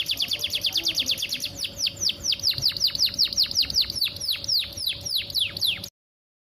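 Female canary calling in a rapid run of short downward-sweeping chirps, about eight a second, slowing to longer falling notes about four a second, then stopping abruptly near the end. This is the call of a female in breeding condition, used to lure males into singing.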